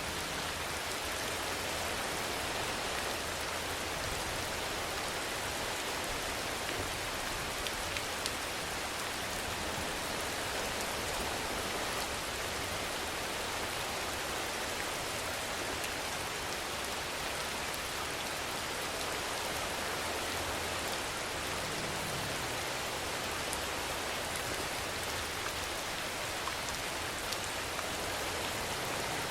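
Steady rainfall: an even hiss of rain with scattered sharper drop ticks now and then.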